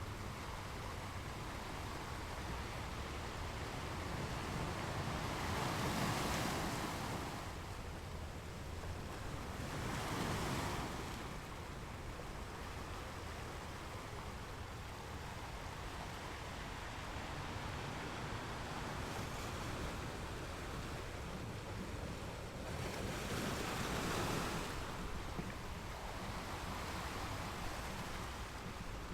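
Small ocean waves breaking and washing onto a beach, with swells at about 6, 10 and 24 seconds in over a steady hiss of surf. Low wind rumble on the microphone underneath.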